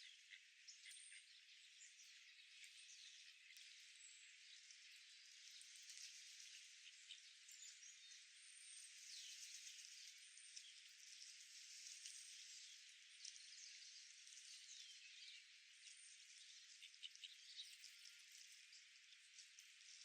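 Faint outdoor park ambience: a steady high-pitched hiss of small chirps and trills, with many short high notes scattered throughout and nothing low-pitched.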